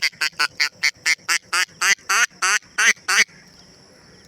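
Duck call blown in a run of about a dozen quacks, short and quick at first, then longer and more spaced out, stopping about three seconds in.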